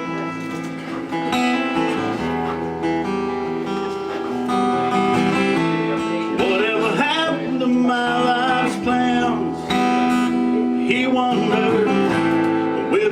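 Live acoustic guitar playing a song's introduction, strummed chords held steady. About six seconds in, a sliding melodic line joins over the chords.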